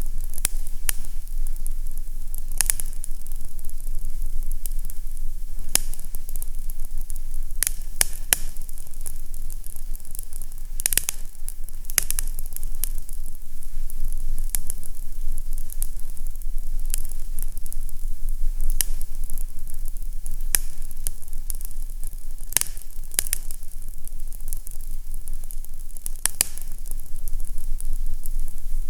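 Fireplace fire crackling, with irregular sharp pops and snaps, about one or two a second, over a steady low rumble and hiss.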